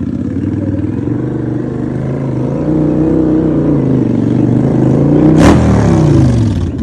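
Motorcycle engine revving up and down as the bike rides close by. About five and a half seconds in there is a sharp crack as it passes, and its pitch drops sharply as it moves away.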